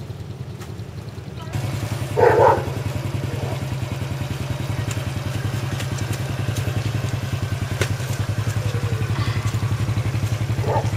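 Honda Wave R motorcycle's small single-cylinder four-stroke engine idling steadily. A short loud cry from a voice comes about two seconds in.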